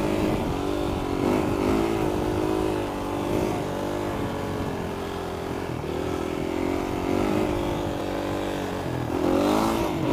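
Supermoto motorcycle engine running under the rider, its pitch wavering with small throttle changes, then revving up about nine seconds in.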